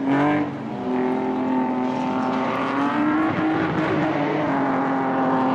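Rally car engine running hard, its pitch dipping and rising again and again with the throttle, after a quick upward sweep right at the start.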